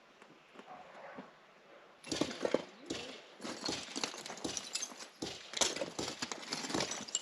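Irregular knocking and clattering, quiet at first and starting about two seconds in: hard objects being moved and set down.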